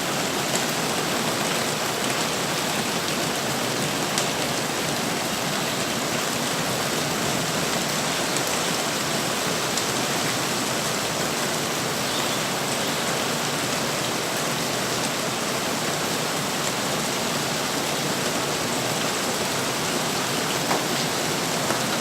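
Hail storm downpour falling steadily: a dense, even hiss with a few sharp ticks.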